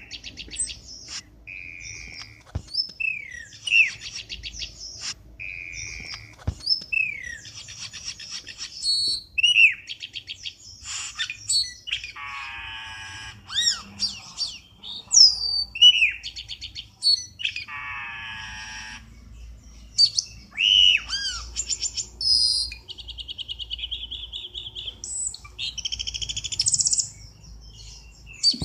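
Cucak keling bird calls played as a lure recording: a varied run of short whistles sliding downward, quick chattering trills and a few harsh rasping calls, with brief pauses between phrases.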